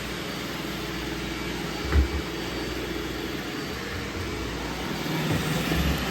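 Roomba robot vacuum running, a steady motor and brush noise, with one low thud about two seconds in. The noise grows louder near the end, with more low bumps.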